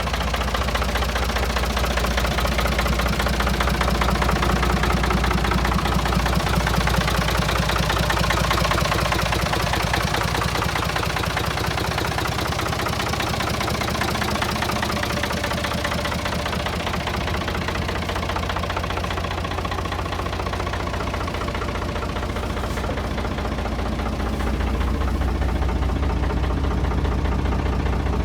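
Diesel engine of a HEDEN FC1340 truck running steadily at around idle, with an even diesel clatter and a little louder toward the end.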